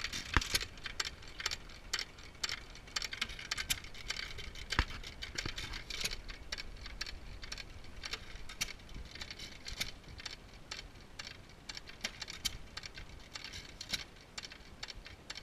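Two antique hit-and-miss engines, a Majestic and a Waterloo, running together: a steady, uneven patter of mechanical clicks and rattles from the engines, with an occasional louder pop.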